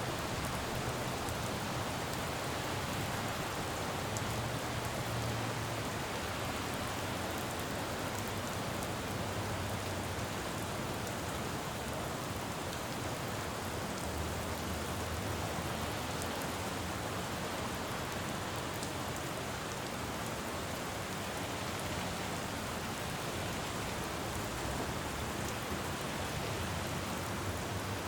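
Steady rain falling on a city road, with a low traffic rumble underneath that swells now and then.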